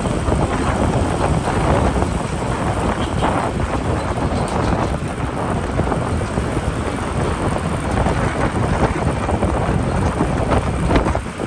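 Wind buffeting the microphone of a moving motorbike, over the steady noise of its own engine and the motorbike traffic around it.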